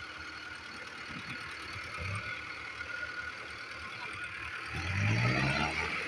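Diesel tractor engine running, then revving up near the end with a rising pitch.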